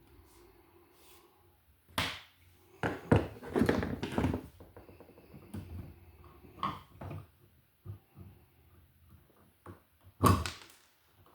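Hand tools clicking and knocking against electrical wire while a pigtail is cut from building wire for the neutrals: a sharp click about two seconds in, a quick run of knocks and rattles over the next two seconds, a few lighter clicks, and another sharp click near the end.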